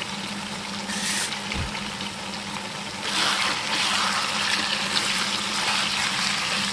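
Chicken pieces in thick oily masala sizzling in a pan, getting louder about three seconds in as they are stirred with a spatula. A steady low hum runs underneath.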